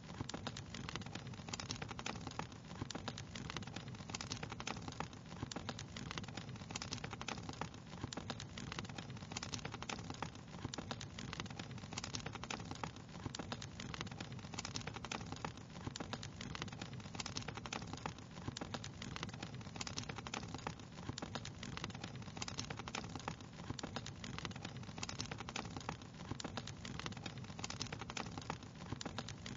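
Wood fire crackling steadily: a dense, irregular stream of small pops and snaps over a continuous low hiss.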